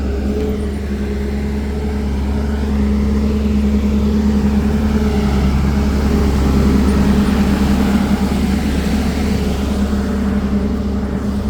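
A heavy diesel engine runs steadily with a deep hum. It grows louder about three seconds in and eases slightly near the end.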